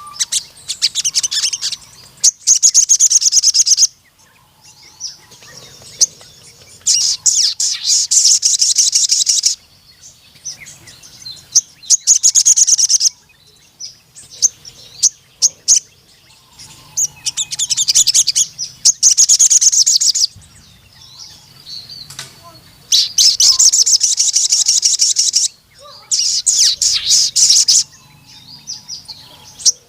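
Sogon (crimson sunbird) singing in repeated loud bursts of rapid, high chittering song, each one to three seconds long, with short pauses between them.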